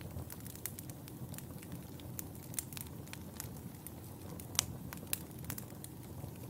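Wood fire in a fireplace crackling: frequent sharp pops and snaps over a steady low rush of burning, with one sharper pop about two-thirds of the way in.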